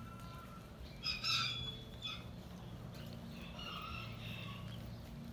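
Two short bird calls, a louder one about a second in and a softer one around four seconds, over a steady low background hum.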